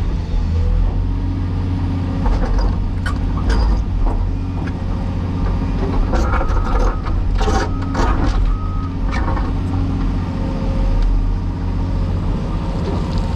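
Cat 336E hydraulic excavator's diesel engine running steadily at working revs. Sharp knocks and clanks come from the machine at work, mostly in the middle of the stretch.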